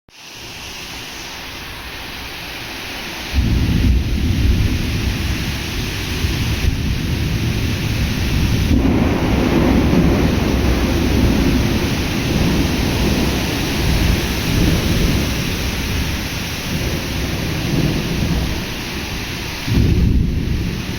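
Heavy rain from a sudden summer thunderstorm pours steadily. About three seconds in, a deep rumble of thunder breaks in and keeps rolling, swelling again near the end.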